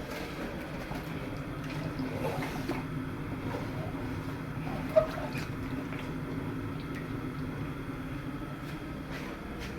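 Steady low rumble of a large pot of chicken biryani masala cooking on its fire, with one short clink about halfway through.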